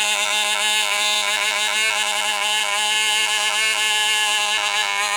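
Tiny model glow-plug engine running steadily at high speed, a high, even-pitched buzz. The owner finds it is running backwards.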